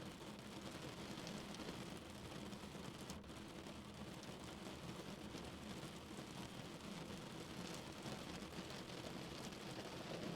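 Steady rain falling on a car's roof and windows, heard from inside the cabin as an even hiss with faint scattered drop ticks.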